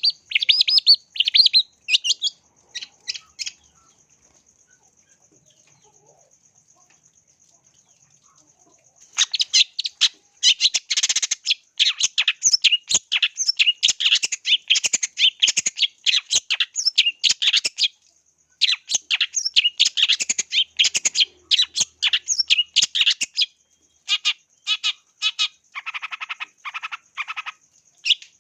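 Long-tailed shrike (cendet) singing a fast, chattering run of sharp high notes. It gives a few calls, falls silent for about five seconds, then sings long dense runs broken by a brief pause. Near the end come spaced notes and a short lower-pitched stretch.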